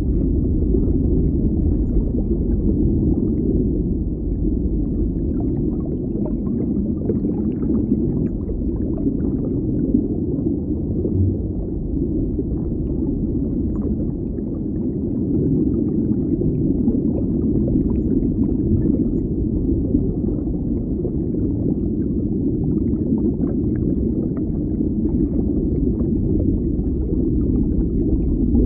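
Deep underwater ambience: a steady low rumble with faint scattered crackles above it.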